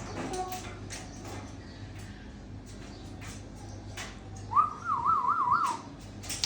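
African grey parrot whistling: a short rising note about four and a half seconds in that breaks into a quick up-and-down warble, with scattered soft clicks around it.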